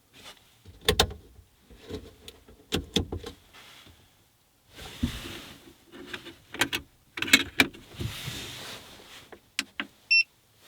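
Clicks, knocks and rustling as a small electric space heater and its portable battery pack are handled and connected, ending in a short electronic beep near the end as the unit is switched on.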